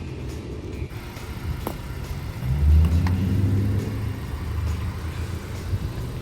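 A car's engine and road rumble, growing louder about two and a half seconds in.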